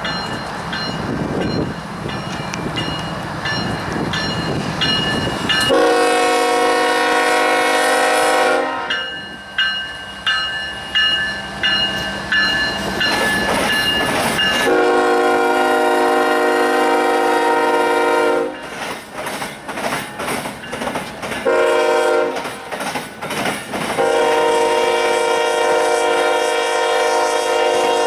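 Freight locomotive air horn sounding a chord in four blasts, long, long, short, long: the grade-crossing signal. Before the horn there is a few seconds of train rumble and wheel noise, and a bell rings in the gap after the first blast.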